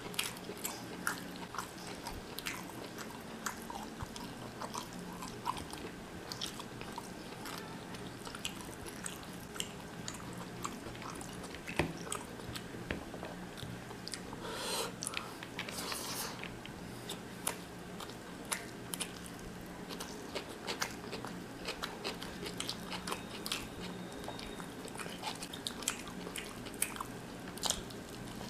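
Mutton biryani being chewed and bitten, eaten by hand, with frequent sharp short wet mouth clicks and smacks over a steady low hum.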